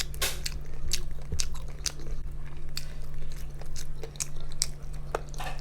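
Close-miked eating: biting into and chewing crispy fried chicken, with sharp, irregular crunches a few times a second, over a steady low hum.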